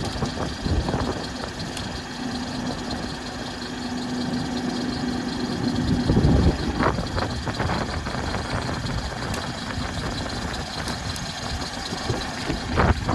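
Tractor engine running steadily at a low idle, with a few light knocks.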